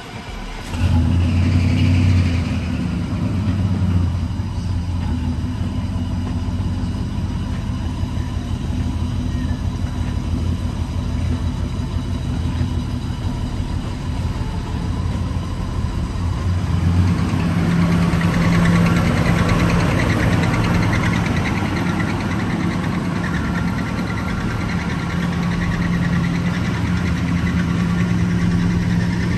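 1984 Chevrolet C10's 305 V8 running steadily, cutting in about a second in, its note changing a little past halfway.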